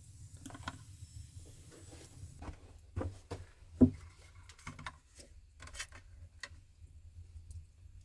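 Scattered light knocks and clicks of objects being handled, the loudest a sharp knock about four seconds in, over a faint low steady rumble.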